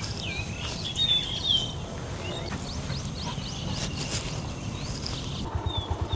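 Wild birds calling: a mix of chirps, short whistles and slurred notes, loudest about a second in, over a low steady rumble.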